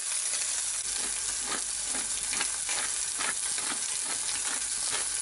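Diced chicken breast sizzling in hot oil in a frying pan: a steady high hiss with frequent short crackles.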